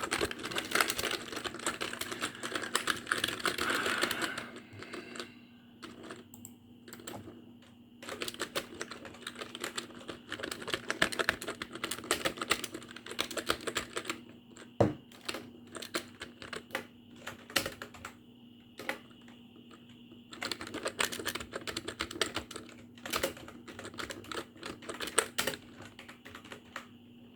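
Computer keyboard being typed on: fast runs of rapid keystrokes alternating with slower, scattered single key clicks.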